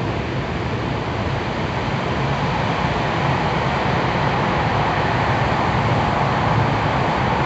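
Tokyu 3000 series electric commuter train, with its Hitachi IGBT inverter drive, running through a tunnel as heard inside a passenger car: a steady rumble of wheels, motors and tunnel noise that grows a little louder about three seconds in.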